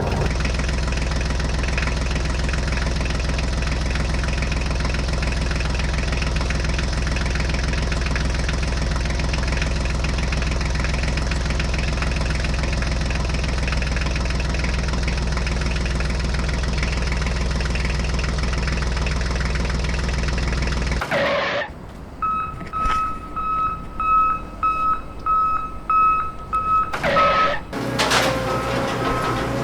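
An engine runs steadily for about twenty seconds, then cuts off suddenly. After that a vehicle's reversing alarm beeps repeatedly, with irregular knocks and rattles around it.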